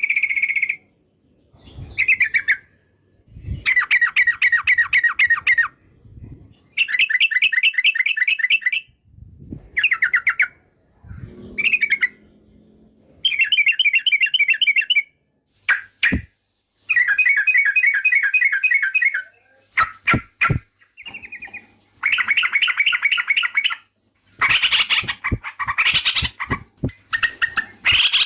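Yellow-vented bulbul (trucukan) singing loud, rapid, bubbly chattering phrases of about one to two seconds each, repeated with short pauses between them. A few sharp clicks come in the middle, and the song grows denser and overlapping near the end.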